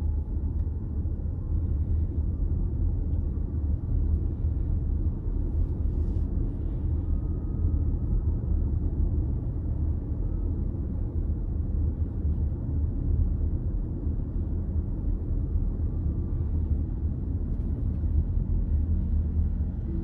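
Steady low rumble of a car being driven: engine and tyre noise.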